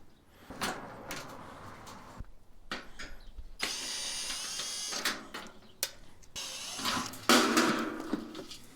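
Hand and power tools working on metal scrap being taken apart: scattered clicks and clanks, with a power tool whirring for about a second and a half near the middle.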